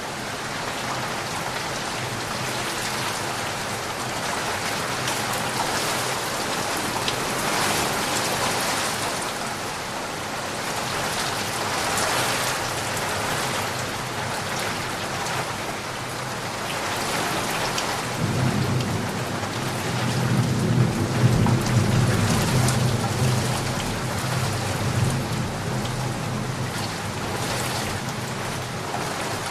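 Steady rain falling, with a long low rumble of thunder rolling in about two-thirds of the way through, strongest a few seconds later, then fading.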